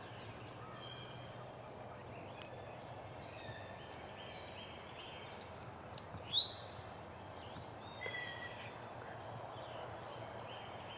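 Wild turkey gobbling with songbirds singing around it. The calls come as short repeated phrases, and one sharper, louder call stands out about six seconds in.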